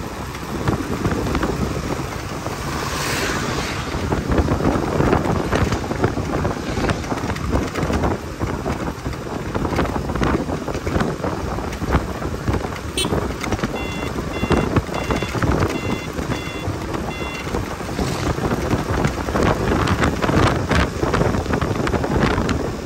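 Wind buffeting the microphone over motorcycle engine and road noise while riding, a steady rough rumble. About midway there is a short run of evenly spaced beeps.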